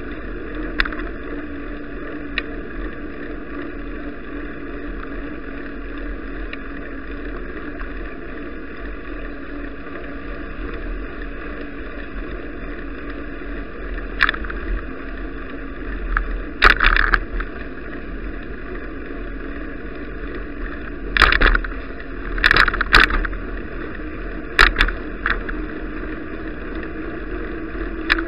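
Steady wind and road noise picked up by an action camera riding on a moving bicycle, with a faint steady hum underneath. Several short sharp bumps come in the second half.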